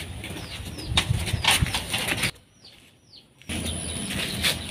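Small bird chirping over and over in short, falling, high chirps, with a few brief rustles. The sound cuts out for about a second midway, then the chirping carries on.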